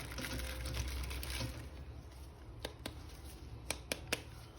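Soft rustling handling noise, then a few sharp, light clicks about halfway through and near the end.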